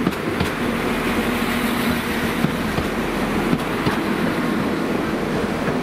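A Class 197 diesel multiple unit running past along the platform: steady engine and wheel-on-rail noise, with a steady hum for the first two seconds and scattered clicks of wheels over the rails.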